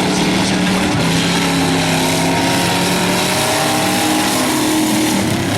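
Several demo car engines running at once, with one revving up over a couple of seconds in the middle.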